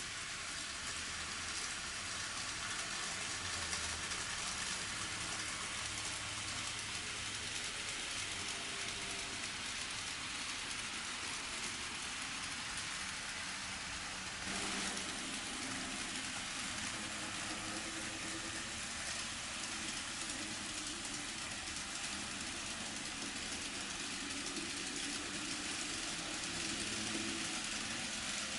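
N scale model trains running on a layout: a steady whirring hiss of small motors and wheels on track, changing slightly about halfway through.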